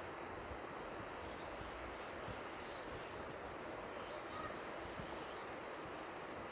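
River water flowing, a steady rushing hiss, with light wind buffeting the microphone at low pitch.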